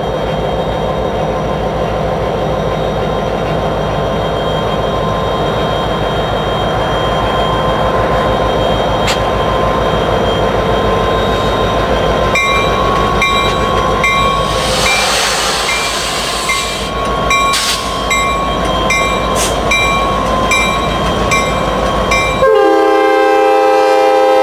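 Norfolk Southern diesel locomotive approaching with a steady engine rumble. From about halfway, a bell rings rapidly and steadily. Near the end the air horn sounds loud and close as the locomotive reaches the microphone.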